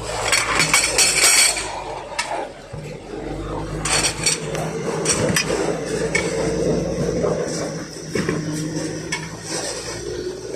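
Steel tyre tools clanking and knocking against a truck wheel rim while a truck tyre is worked over it by hand: irregular sharp metallic strikes, the loudest cluster just after the start, over a steady low hum.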